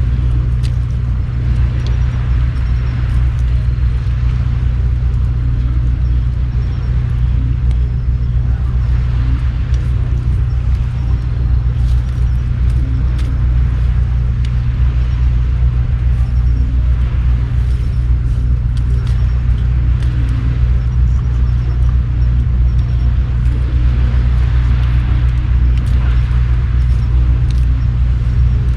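A steady low rumble with faint, scattered crackles of a campfire.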